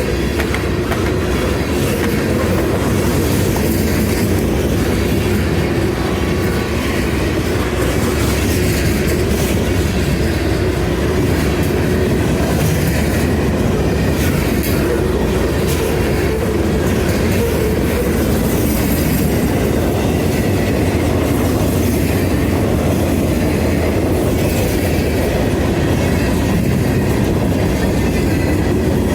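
A Norfolk Southern freight train's cars rolling past steadily: a continuous rumble of wheels on the rails that does not let up.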